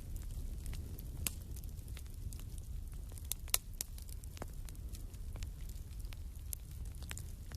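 Wood fire burning in a fireplace: a steady low rumble with scattered sharp crackles and pops, the loudest about a second in and again about three and a half seconds in.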